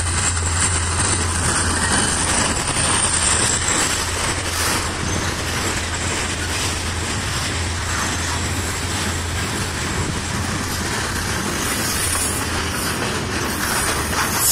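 Freight cars rolling past on the rails: a steady rumble and clatter of steel wheels on track, with a low hum that fades out about two-thirds of the way through.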